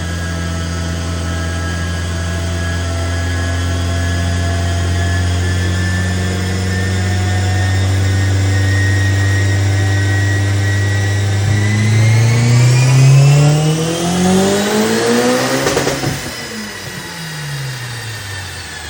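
Engine of a tuned car making about 500 hp, its exhaust-side MIVEC variable cam timing deleted. It holds steady revs for about eleven seconds, then revs climb steadily for about four seconds to a peak, with a burst of noise at the top, and fall away again.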